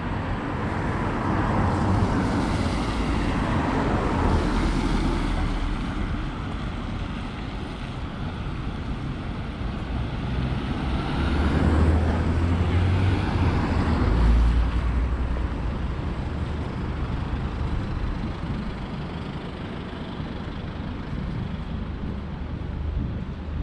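City road traffic, with vehicles passing in two swells that build and fade, one in the first few seconds and another around the middle, over a steady low rumble.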